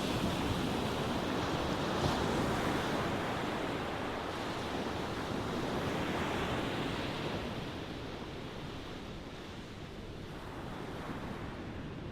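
Ocean waves washing onto a shore: a wave surges in at the start and slowly draws back over the next several seconds, with a smaller wave rising near the end.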